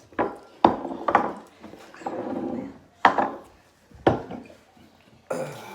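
Japanese grapefruit juice drink container being handled and opened: several sharp clicks and knocks with some rubbing in between, and a brief rushing noise near the end.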